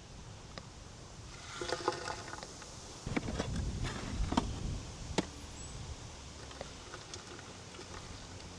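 Shovel scraping up soil and dumping it into a posthole around a wooden post. There is a scrape about two seconds in, then dirt and stones tumble in with a few sharp clicks between about three and five seconds.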